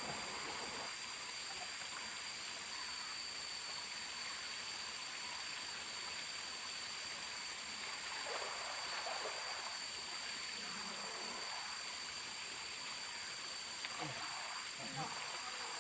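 Mountain stream flowing steadily, with a constant high-pitched drone of insects over it and a few soft water sloshes midway and near the end.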